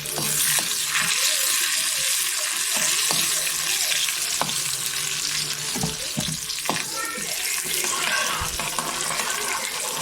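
Curry leaves and onion sizzling in hot oil in a pan for a tempering, a steady hiss with a few sharp clicks of stirring.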